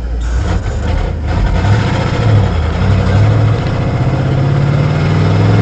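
Truck engine and road noise heard while driving, with a steady engine hum that rises slowly in pitch during the second half.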